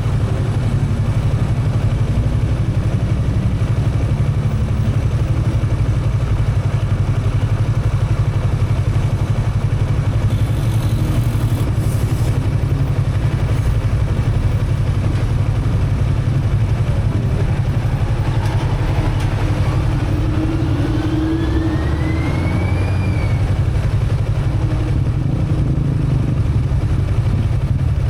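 Motorcycle running at road speed, a steady low engine and wind rumble. About two-thirds of the way through, a whine rises in pitch for several seconds, then stops.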